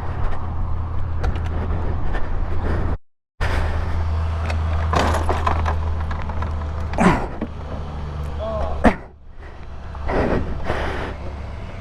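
A vehicle engine running with a steady low drone, under scattered knocks and clatter. The sound cuts out completely for a moment about three seconds in, and the drone fades out about nine seconds in.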